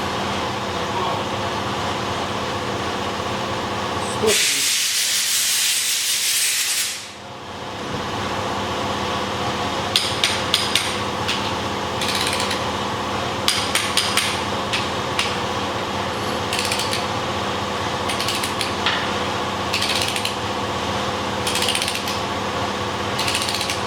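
Wrench ratcheting in short bursts of clicks as the main bearing cap bolts are tightened to 103 Nm. About four seconds in comes a loud hiss lasting some three seconds. A steady hum runs underneath.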